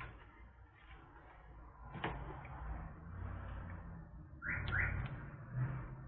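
Light clicks and knocks of handling on a workbench, with two short chirp-like squeaks about four and a half seconds in.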